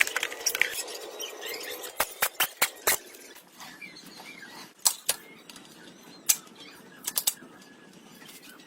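A series of sharp, irregular clicks and taps, some in quick clusters of three or four, over a faint steady background hiss.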